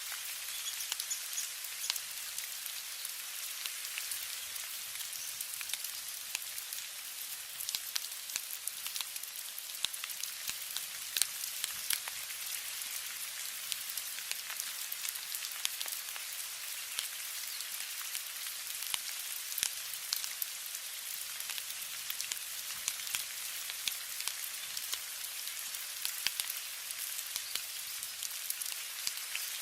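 Steady rain falling: an even hiss with many sharp, scattered drop ticks.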